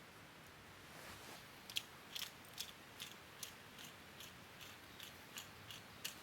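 A run of about a dozen short, crisp clicks at a steady pace of roughly two to three a second, starting a little under two seconds in, over faint background hiss.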